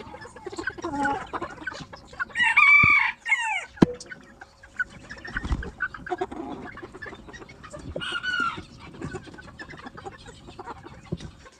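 A rooster crows once about two seconds in, a long call of a second or more, and gives a shorter call about eight seconds in, with low clucking between and a couple of sharp clicks just after the first crow.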